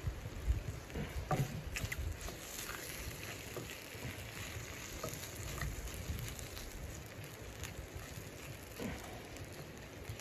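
Chicken pieces sizzling steadily in a frying pan on a wood stove, with scattered small pops and the clicks and scrapes of a wooden spatula turning them. A low thump about half a second in.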